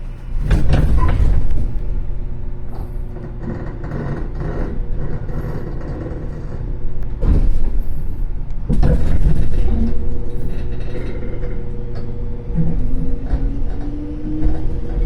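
A 415 series 1500-subseries electric multiple unit running on the line: a continuous loud rumble, broken by a few sharp knocks. Near the end a whine rises in pitch.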